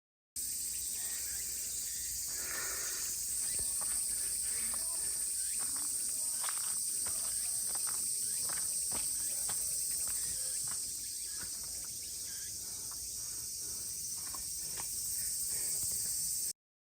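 Cicadas droning in a steady, high-pitched chorus, with scattered light clicks and rustles over it.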